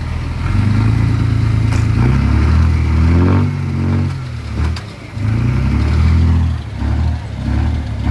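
Diesel engine of a heavy earthmoving machine working under load, its revs rising and falling, with a drop in pitch about three seconds in and several brief dips near the end.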